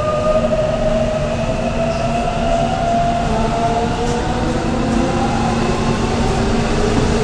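Korail 3000-series Seoul Subway Line 3 electric train running, its motor whine rising slowly in pitch as it gathers speed over a steady rumble from the wheels and track.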